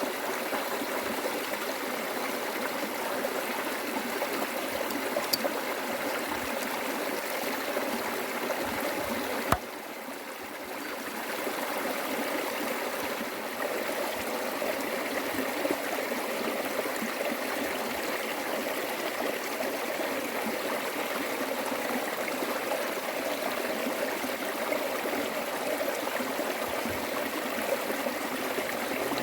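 Flowing stream water running steadily in an even rush, with a sharp click about nine and a half seconds in, after which it drops briefly before returning.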